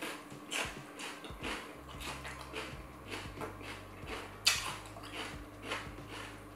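Close-miked chewing, with repeated crunchy, wet mouth sounds about twice a second and one sharper crunch of a bite about four and a half seconds in.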